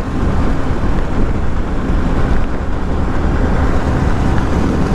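Yamaha R15 V3's single-cylinder engine running steadily as the motorcycle climbs a hill road, mixed with wind noise on the microphone.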